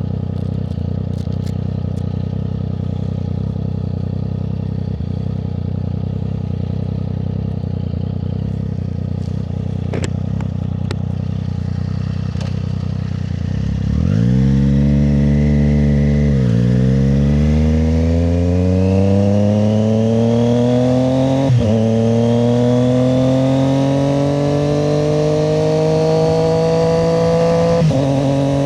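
Triumph Street Triple 765 RS's inline three-cylinder engine idling steadily, then pulling away about halfway through and accelerating with rising pitch through the gears, with upshifts about 2, 7 and 14 seconds after pulling off.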